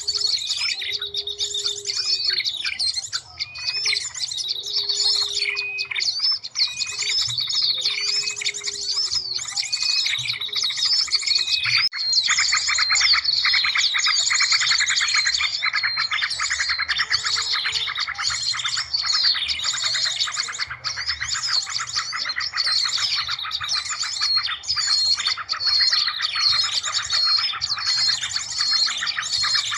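Bird-lure recording of many small birds chirping, trilling and calling over one another in a dense layered mix. A low, repeated hooting call sounds through the first ten seconds or so, and the chorus grows thicker about twelve seconds in.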